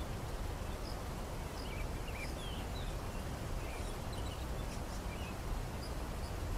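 Steady low background noise with scattered short, high bird chirps, a few each second.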